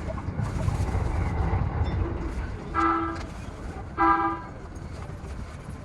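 Low rumble of a train running, easing off after about two seconds, then two short, identical horn-like toots about a second apart.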